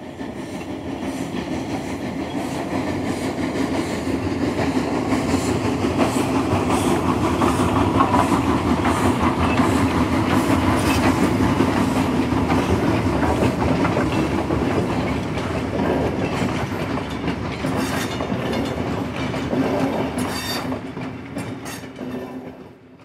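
A train running on rails, a steady rumbling noise with occasional wheel clicks. It swells over the first several seconds, holds, then fades away near the end.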